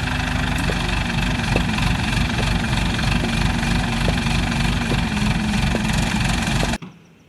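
An engine running steadily at idle, with a dense low rumble and a faint regular tick a little more than once a second. It cuts off abruptly near the end.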